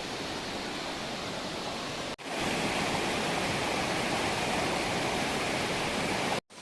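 Waterfall: a steady rush of falling water. It breaks off sharply about two seconds in and comes back louder, then breaks off again near the end.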